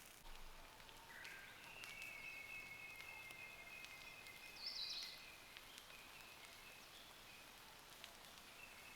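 Near silence: faint outdoor ambience with a thin, high, steady tone lasting a few seconds and one short, high chirp about halfway through.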